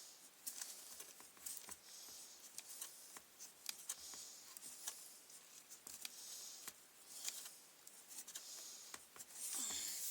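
Light clicks and short scratchy scrapes of small plastic trimmer parts being handled and worked at close range, scattered and irregular.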